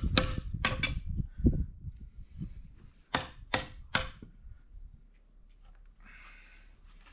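A hand tool striking wood in a run of sharp knocks, ending with three quick blows less than half a second apart; after that it goes quiet.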